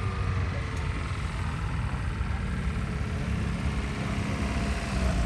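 A motor vehicle's engine running at low speed as it rolls slowly in, with a steady low engine sound.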